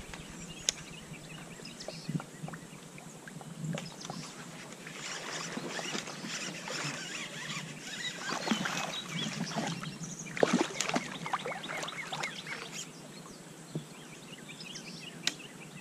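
Water splashing and sloshing around a fishing kayak, with scattered light knocks and clicks against the boat, busiest in the middle with the loudest knock about ten seconds in.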